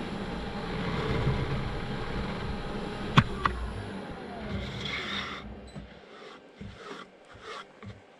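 Wood lathe running while a tool cuts poplar, with two sharp clicks about three seconds in. A falling tone follows, and the running noise dies away about six seconds in, leaving a few brief knocks.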